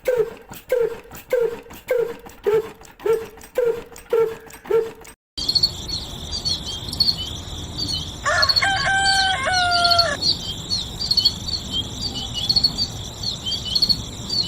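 A rapid string of short dog yelps, about two a second, stops abruptly about five seconds in. High, quick chirping follows, with a rooster crowing once for about two seconds midway through.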